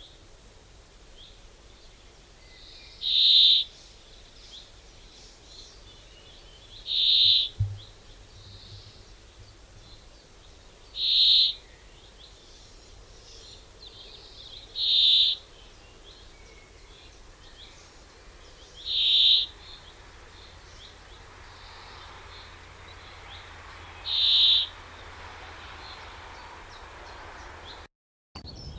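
A bird repeating a single short, high call about every four seconds, six times, over a faint steady outdoor background.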